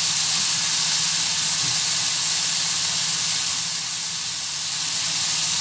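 Small pieces of liver sizzling steadily in very hot oil in a frying pan. They are being seared fast at high heat to seal the juices inside.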